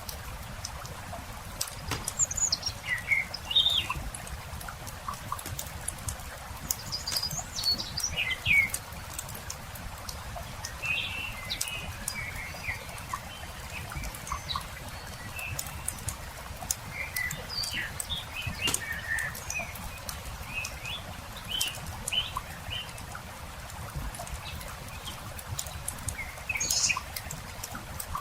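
Campfire crackling with frequent sharp pops, while small birds chirp and sing in short phrases throughout, over a low steady rumble.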